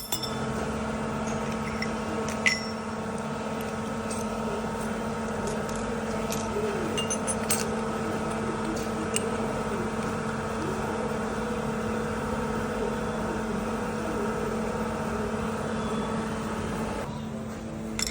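A machine tool running with a steady hum, with a few light metallic clicks, while it cuts the groove for the bearing lock tang in a connecting rod. The hum drops off somewhat near the end.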